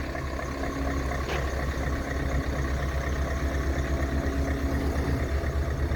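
An engine idling steadily, a constant low rumble with a faint steady hum.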